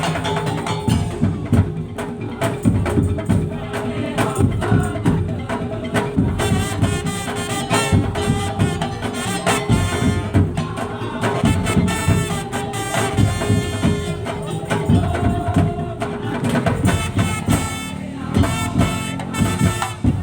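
Madurese tong-tong (daul) ensemble playing live: fast, dense percussion from bamboo slit drums and drums, with a pitched melody line carried over it.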